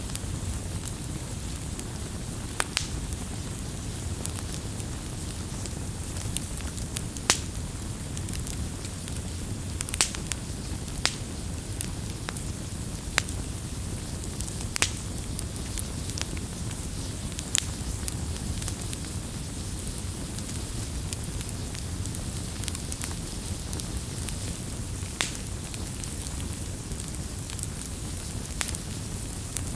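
Campfire burning: a steady low rumble of flames with sharp crackles and pops from the wood at irregular intervals, a few every several seconds.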